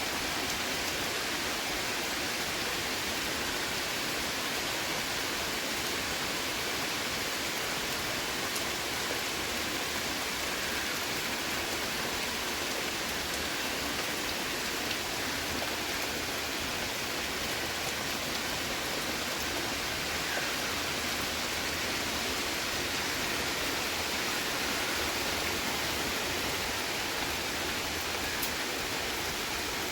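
Heavy rain falling steadily, a constant even hiss with no letup.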